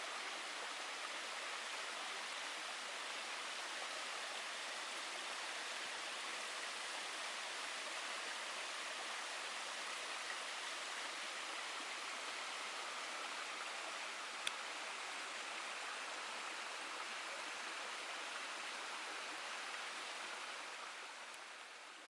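A waterfall: a steady rush of falling water, with one sharp click about fourteen seconds in, fading out near the end.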